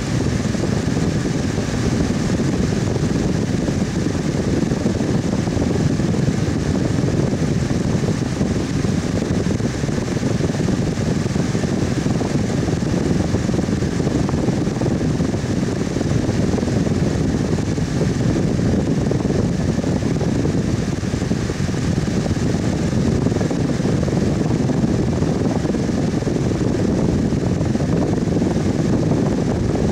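Fan running steadily: a continuous whooshing whir of moving air with a faint steady hum, unchanging throughout.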